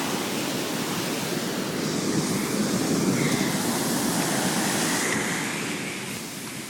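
Heavy surf from a hurricane swell: a wave breaking and rushing in, the noise swelling about two seconds in and easing off near the end.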